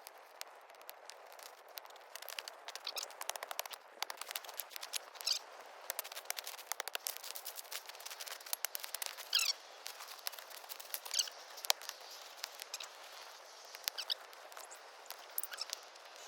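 Small campfire crackling and popping: many sharp, irregular snaps over a steady hiss, with a few short high squeaks scattered through.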